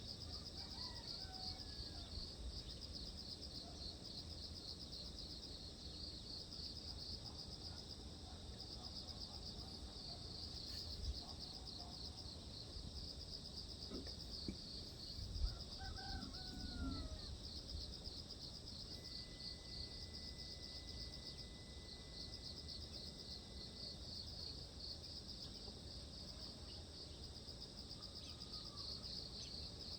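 Steady high-pitched insect trilling, fast and pulsing without a break, with a few short bird calls about halfway through and a couple of low thumps.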